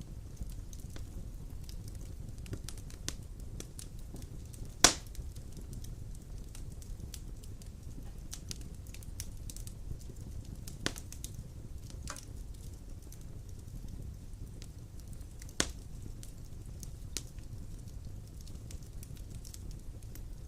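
Wood fire burning in a stone fireplace: a steady low rumble of flame with scattered crackles and a few sharp pops, the loudest about five seconds in and again past the middle.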